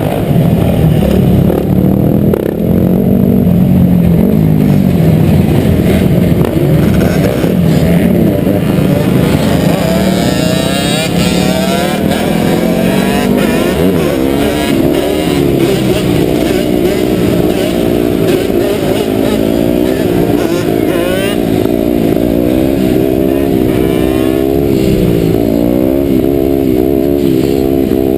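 Dirt bike engines running and revving. It starts as a fairly steady engine note, then from about a third of the way in several engines overlap, their pitch rising and falling repeatedly as the throttles are blipped.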